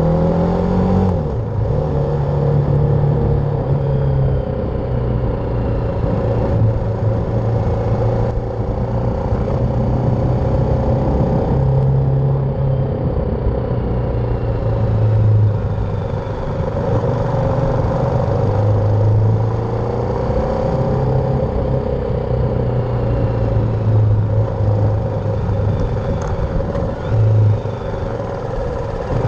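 BMW G310R's single-cylinder engine running while riding, its pitch stepping up and down every few seconds as the revs change, over a steady rumble of road and wind noise.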